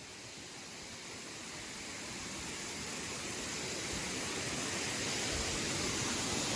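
Steady rushing of a waterfall, a continuous even roar of falling water that grows gradually louder.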